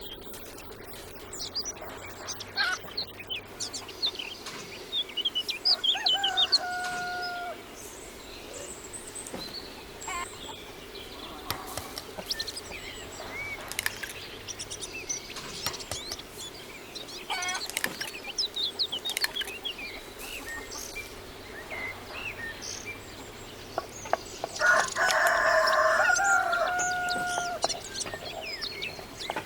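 A rooster crows twice, once about six seconds in and louder near the end. Chickens cluck and small birds chirp around it, with occasional short knocks.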